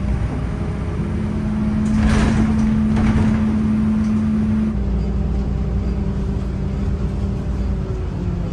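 City bus running, its engine droning steadily with a humming tone that drops slightly under halfway through, and a short burst of hissing air about two seconds in.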